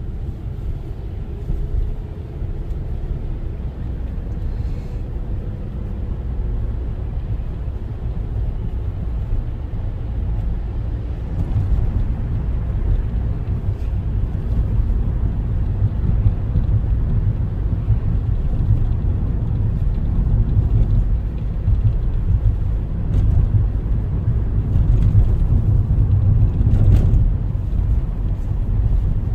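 Car driving, its steady low road and engine rumble growing louder about a third of the way in.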